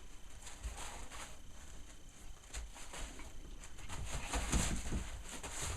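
Puppies moving about and scuffling softly. A few low thumps come a little past the middle.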